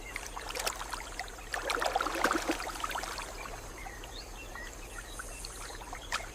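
River water splashing and trickling, with a busier patch of splashes about two seconds in.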